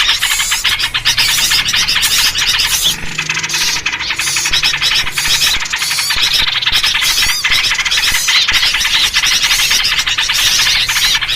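Dense, agitated chorus of small songbirds chattering and squealing rapidly without pause, including yellow-vented bulbul (trucuk) calls: a noisy bird-lure track of the kind used to draw in wild birds.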